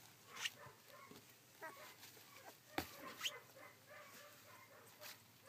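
Faint, short, high squeaks and whimpers of 16-day-old rough collie puppies, with a few sharp clicks, the loudest about halfway through.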